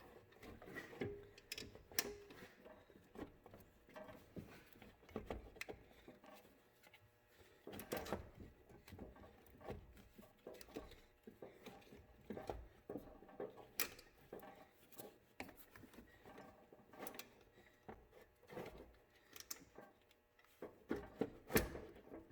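Irregular light knocks, clicks and scrapes as an alternator is worked down into a car's engine bay by hand.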